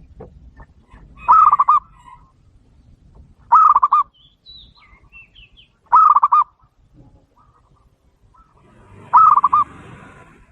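Doves cooing in an aviary: four calls, each a quick run of three or four pulsed notes, repeated about every two and a half seconds. A few faint high chirps come in between.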